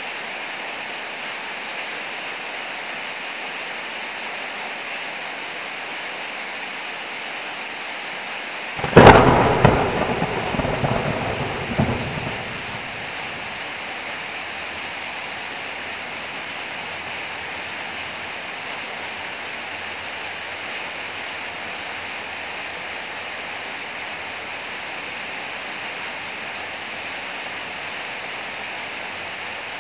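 Heavy rain falling steadily, with one sharp thunderclap about nine seconds in that rumbles on for about three seconds before fading back into the rain.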